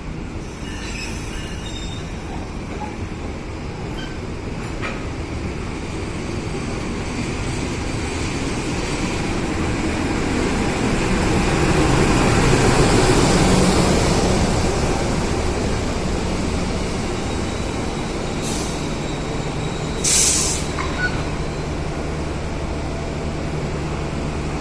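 A train rolling through a station: the rumble and squeal of wheels on rail build to their loudest about halfway through, then ease off. There is a short, sharp, high burst about twenty seconds in.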